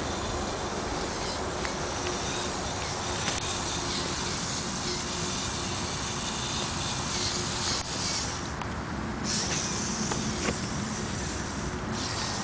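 Small electric motors of a remote-controlled Lego trial truck buzzing steadily as it drives, with a few light clicks and a steady hiss.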